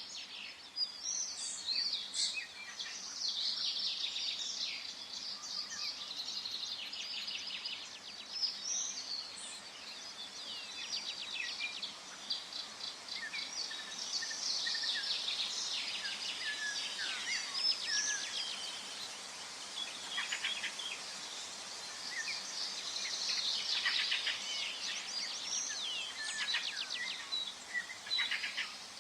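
Forest birds singing, several at once: overlapping chirps, whistles and fast trills, over a faint steady background hiss.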